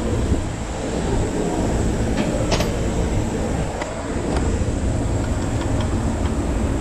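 Steady low rumble with a few sharp metallic clicks of hand tools working on the engine's exhaust-manifold bolt.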